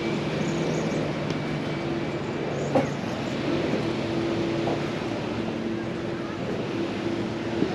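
A steady motor hum over a haze of surf and faint voices of beachgoers, with a sharp knock a little under three seconds in.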